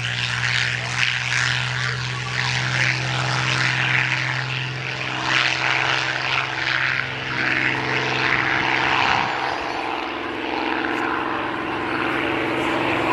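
Supermarine Spitfire PR Mk XI's Rolls-Royce Merlin V12 engine running at high power as the aircraft gets airborne, a steady engine note with propeller noise. The note shifts in pitch about two thirds of the way through.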